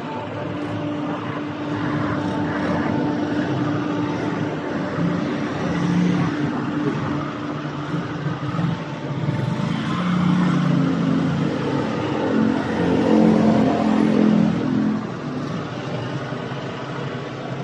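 A vehicle engine running, its pitch and level shifting as it speeds up and slows, loudest about three-quarters of the way through.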